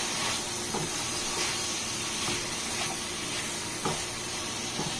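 Chicken chunks frying in oil in a pan: a steady sizzle, with a few faint clicks.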